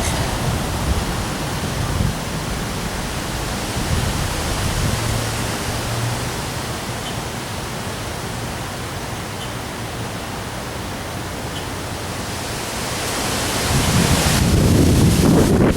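Steady hiss of heavy rain and strong wind. About fourteen seconds in, a stronger gust swells and buffets the microphone with a low rumble.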